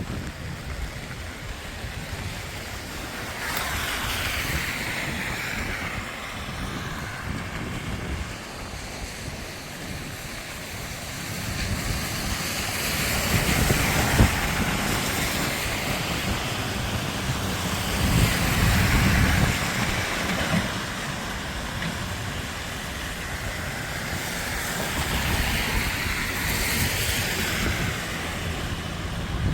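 Cars passing one after another on a wet road, each tyre hiss swelling and fading over a few seconds, about four times, over a steady wash of rain.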